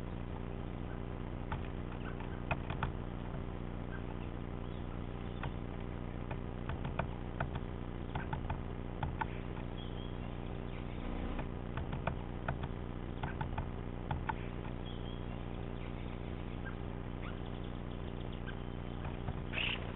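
Great spotted woodpecker pecking at peanuts in a drilled log feeder: irregular sharp taps, often in short runs, over a steady low hum. A few brief high bird calls come through now and then.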